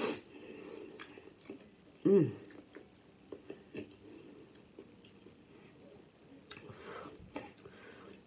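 Close-up mouth sounds of a person eating seafood boil in sauce: chewing with wet smacks and many small clicks, a sharp smack at the start, and a short voiced sound falling in pitch about two seconds in.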